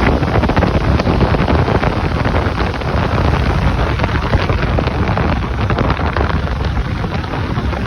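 Furnace squirrel-cage blower running, its air blast buffeting the microphone in a loud, steady rush with heavy rumble and rapid crackling flutter.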